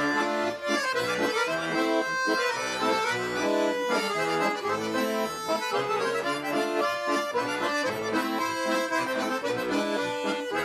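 Bayan (Russian button accordion) playing a rhythmic instrumental break between sung verses of chastushki.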